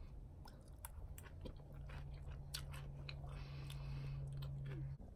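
A person chewing a mouthful of raw salad (crisp lettuce and tomato), with soft crunches and small clicks. A low steady hum runs under it from about a second in until just before the end.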